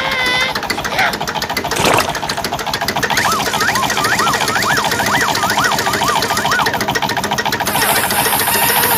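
A tractor engine running steadily with a fast, even chugging rhythm. From about three to seven seconds in, a whistling tone swoops up and down several times over it.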